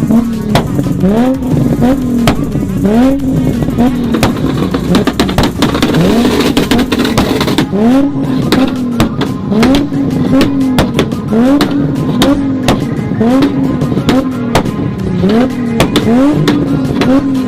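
A tuned car engine revved over and over in quick blips, about one a second, each one rising in pitch, with sharp exhaust pops and bangs crackling throughout. The bangs are the exhaust shooting flames, loud enough to be taken for fireworks.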